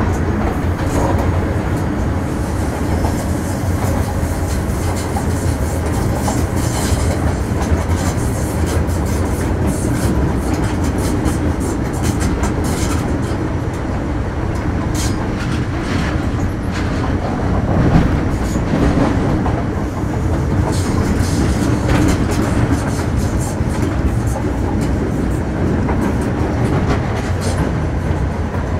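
MTR Metro Cammell M-Train electric multiple unit with a GEC GTO chopper, heard from inside the car while running between stations. A steady rumble of wheels and running gear carries on throughout, with irregular clicks as the wheels pass over rail joints.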